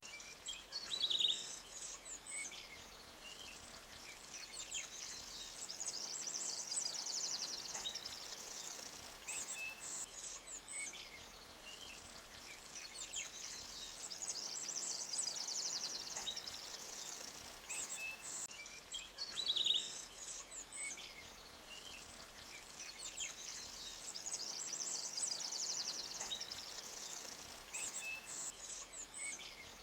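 Forest ambience: birds chirping, with sharp chirps about a second in and again around twenty seconds in, over a high buzzing insect trill that swells and fades every several seconds. A faint steady hiss of a gently flowing stream sits underneath.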